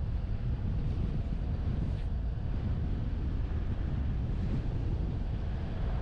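Wind buffeting the microphone of an action camera mounted on the roof of a moving truck: a steady low rumble, with the truck's road noise underneath.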